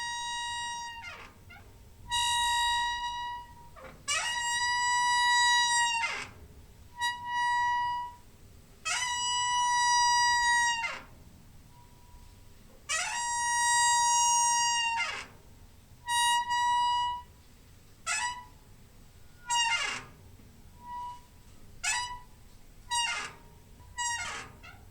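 Door hinge squeaking: a run of high, pitched creaks, each holding a steady squeal that slides in pitch as it starts and stops. The first creaks last about two seconds each; in the last third they turn short and come about once a second.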